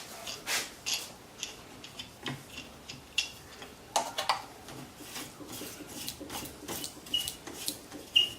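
Irregular short scrapes and rubs with a few light knocks, roughly one to two a second: a freshly sanded wooden dowel being handled and rubbed by hand.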